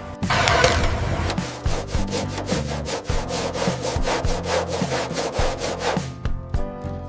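Fast back-and-forth abrasive strokes on a surface, about five a second, with background music underneath.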